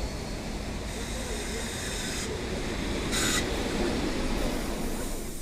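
Passenger train rumbling, slowly growing louder, with a short hiss of air about three seconds in.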